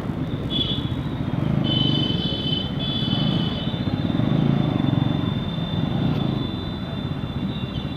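Bajaj Pulsar NS200's single-cylinder engine running under way, with road and wind noise. High-pitched tones sound on and off in the first half, and a steady high tone runs from about the middle on.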